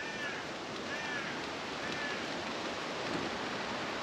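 Woodland ambience: a steady rushing hiss, with a small bird giving three short chirps, about one a second, in the first half.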